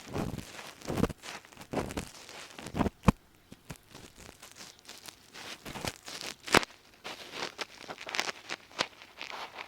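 Ear pick scraping and scratching deep inside an ASMR microphone's ear, close up, in irregular strokes with crackly, crunchy clicks. Two sharp clicks stand out, about three seconds in and about six and a half seconds in.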